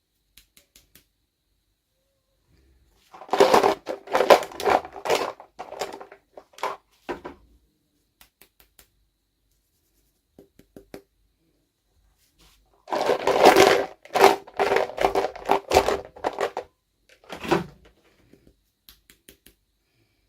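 Crackling and crinkling of toy packaging being handled and opened, in two bursts of a few seconds each with a few single ticks between.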